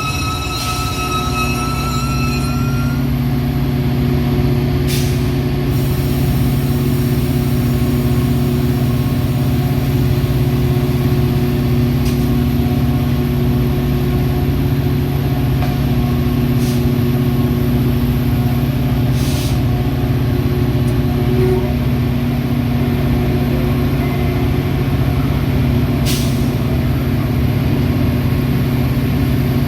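Metra commuter train's brakes squealing as it comes to a stand, the squeal ending about three seconds in. Then the standing train's diesel locomotive keeps up a steady low hum, with several short air-brake hisses.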